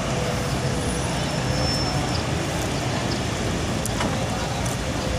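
Steady road-vehicle noise: bus and traffic engines running with a continuous low hum and no single event standing out.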